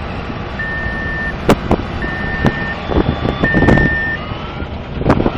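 A vehicle's reversing alarm beeping steadily, three even single-tone beeps about a second and a half apart, over a running engine's rumble with a few sharp knocks; the sound grows louder and noisier near the end.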